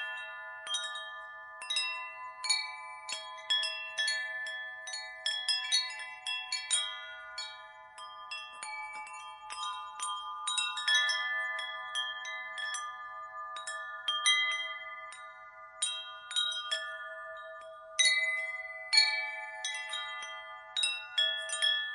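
Wind chimes blown by the wind, metal tubes striking at irregular moments and ringing on in overlapping tones, with no steady beat.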